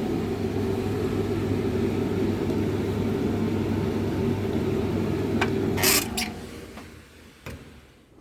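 Hotpoint TL51 tumble dryer running on high heat, a steady motor hum with drum rumble. About five and a half seconds in come a couple of sharp clicks, and the motor winds down and stops.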